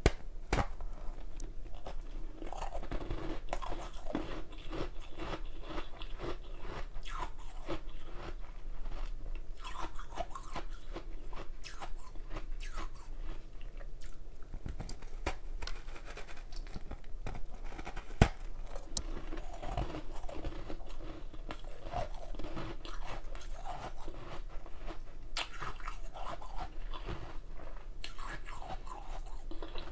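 A person biting and chewing hard ice, a continuous run of crunches and crackles as the ice breaks between the teeth, with one sharp loud crack about eighteen seconds in.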